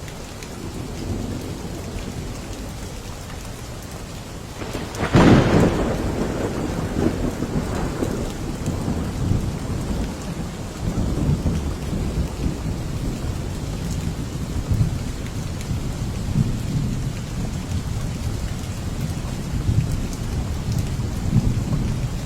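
Steady heavy rain with a sudden clap of thunder about five seconds in, the loudest moment, followed by a low rolling rumble that fades slowly.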